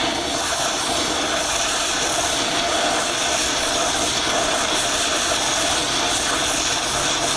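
Angle grinder running steadily under load, cutting through a steel track pin on a paver's undercarriage.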